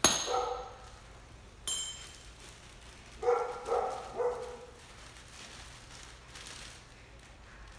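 Pretzels being smashed in a container: one hard strike with a short ringing tone, a light clink, then three softer knocks about half a second apart that ring with the same tone.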